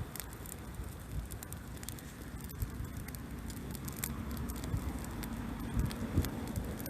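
Bonfire of pruned kiwifruit vines crackling, with scattered irregular pops and ticks over a low rumble.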